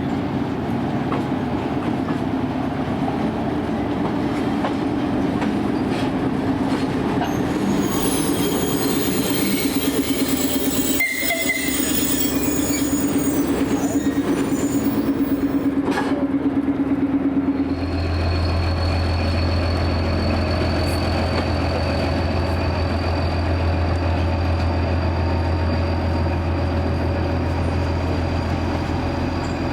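A train rolling past with a steady running hum and high wheel squeal through the middle. At about 18 seconds the sound changes to a deep, steady hum that carries on to the end.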